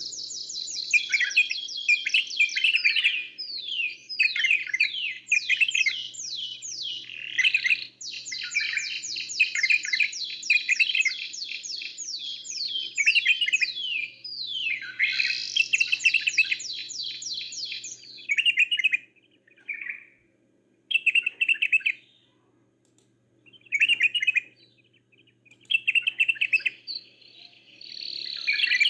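Caged songbirds, canary and bulbul, singing: long runs of rapid, falling trill notes for the first half, then shorter separate phrases with pauses between them.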